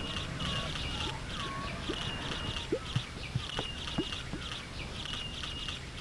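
Birdsong by a lake: chirps repeating about twice a second, with a few brief low rising calls in the middle.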